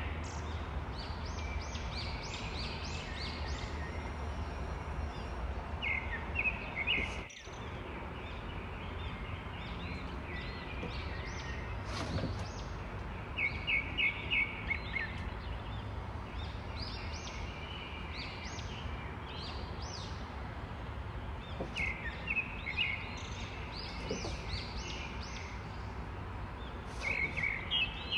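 Small birds chirping in short bursts of quick repeated notes every few seconds, over a steady background hiss that briefly cuts out about seven seconds in.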